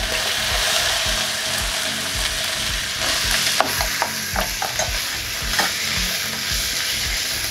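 Diced carrots, peas and green beans sizzling as they land in hot vegetable oil, with a steady hiss of frying. A slotted spatula stirs them, scraping and tapping the pan several times.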